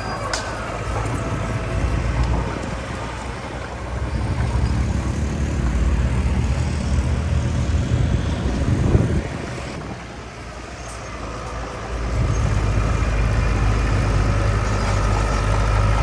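Heavy diesel engine of earthmoving machinery running under load with a low, steady drone. It eases off about ten seconds in and picks up again about two seconds later.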